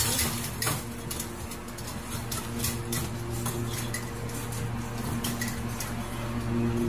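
Stainless-steel food bowl clinking and rattling against the wire bars of a cage as a cat eats from it: many small metallic clicks over a steady low hum.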